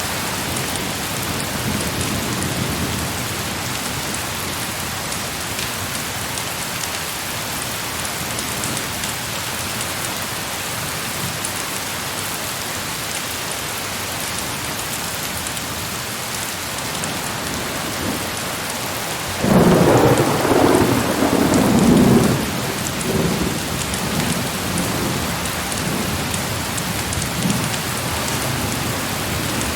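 Steady heavy rain. About twenty seconds in, a sudden loud clap of thunder rumbles for a few seconds and dies away.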